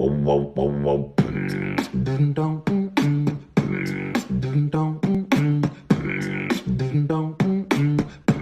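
Beatboxing: sharp mouth-percussion hits about two to four times a second over a sung melody of changing pitched notes. It starts abruptly.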